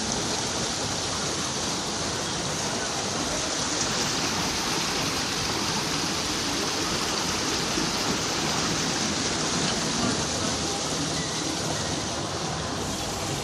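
Steady rush of seawater washing along the shore, an even, unbroken noise.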